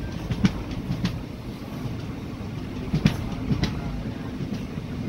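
Passenger train coach running on the rails: a steady low rumble with the wheels clicking sharply over rail joints a few times, two clicks close together near the start and again about three seconds in.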